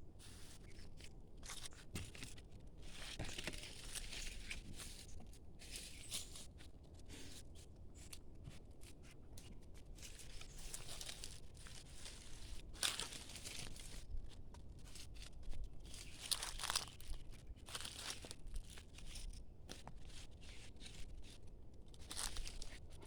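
Irregular crunching and crackling of dry leaf litter or undergrowth being trodden and brushed through, in uneven bursts with a few louder crunches.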